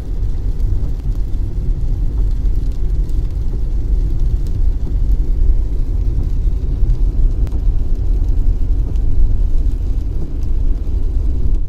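Steady, loud low road rumble of a car on the move, heard as cabin and road noise. It cuts off suddenly at the end.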